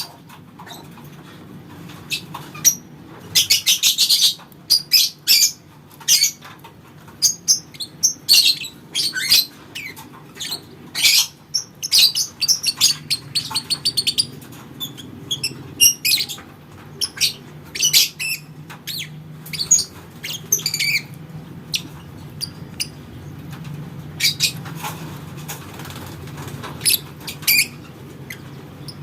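Lovebird chattering: shrill chirps and short rapid trills in irregular bursts, over a faint steady low hum.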